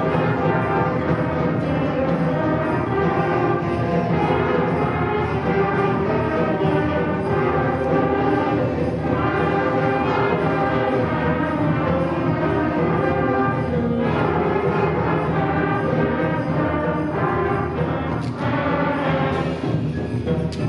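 Middle-school concert band playing a full, steady passage with brass prominent. A few sharp percussion strikes come near the end.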